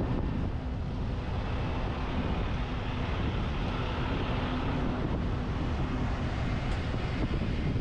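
Steady wind rushing over a truck-roof-mounted GoPro's microphone while driving, with low road and vehicle rumble underneath and a faint on-and-off hum.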